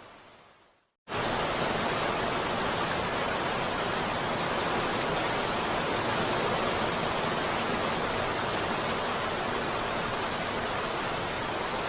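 Heavy rain as a dense, even hiss: it fades away to a brief silence, then cuts in again abruptly about a second in and keeps falling steadily.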